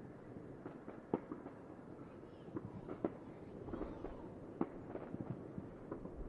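Fireworks going off: an irregular crackle of sharp pops and bangs, several a second, with louder bangs about a second in, at three seconds and at about four and a half seconds.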